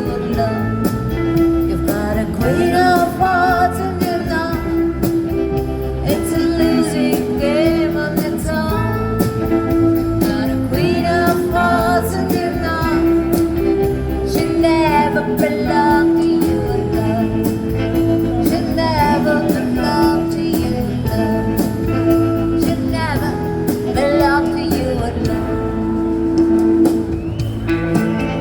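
A rockabilly band playing live: guitar, bass and drums with a steady beat.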